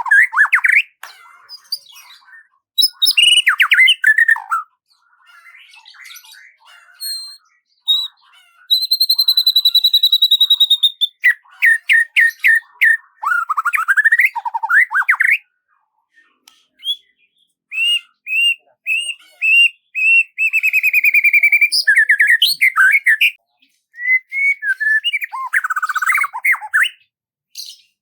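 Songbird singing a varied song of whistled phrases, rapid trills and repeated notes, broken by short pauses.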